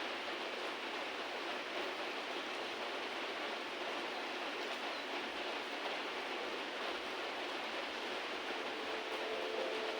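Heavy rain falling steadily, an even hiss of rain.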